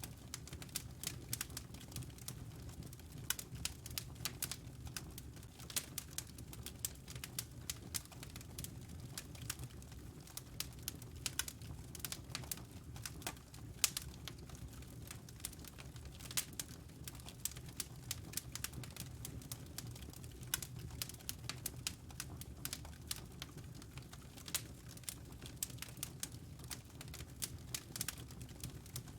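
Wood fire crackling: many quick, irregular snaps and pops over a steady low rumble of the burning logs.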